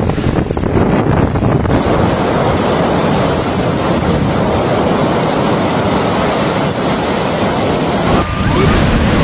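Rough sea: heavy waves crashing and surging, with strong wind buffeting the microphone. The sound changes abruptly about two seconds in and again near the end, as at cuts between recordings.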